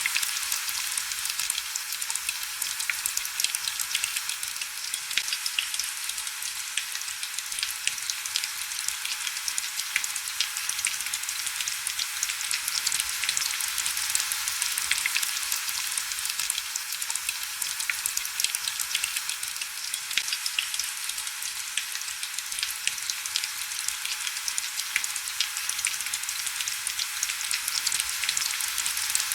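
Heavy rain falling steadily: a dense, even hiss of fine crackling drops with no low rumble or thunder.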